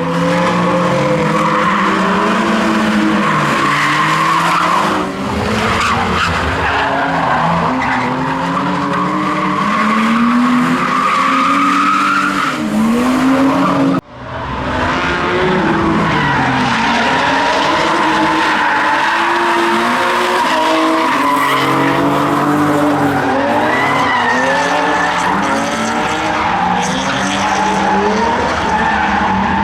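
Drift cars' engines revving hard, the pitch rising and falling over and over as the throttle is worked, with tyres screeching in a steady squeal throughout. There is a sudden break about halfway, after which the same revving and squealing carry on.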